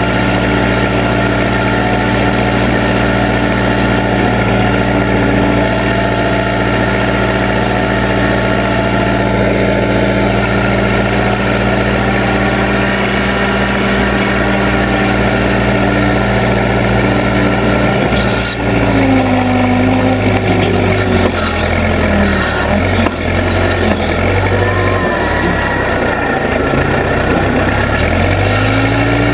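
Case 580B backhoe's engine running at a steady speed, then dropping in pitch about two-thirds of the way through and wavering for several seconds before picking back up near the end.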